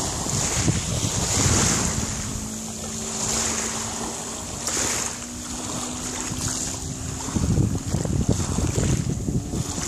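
Boat running over water under a Suzuki DT140 two-stroke V4 outboard: wind buffets the microphone and water hisses along the hull. A steady engine drone comes through from about a second and a half in and drops away about seven seconds in.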